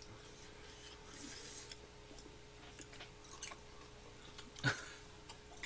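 Faint eating sounds: curry ramen being chewed, with a few light clicks, a sharper one a little after four and a half seconds in.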